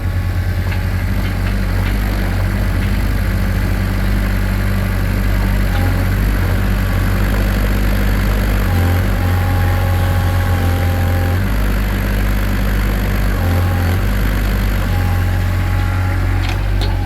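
Small excavator's engine running steadily, its note shifting a few times as the claw arm is worked.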